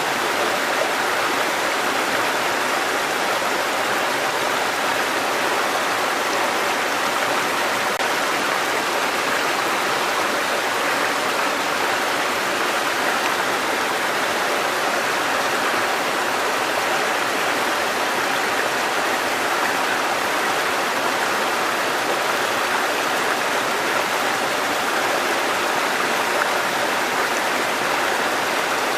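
Mountain stream water cascading over rocks, a steady, even rushing with no change.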